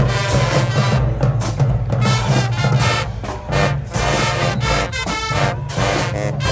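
Marching band playing: brass horns over a driving drumline with frequent sharp drum hits.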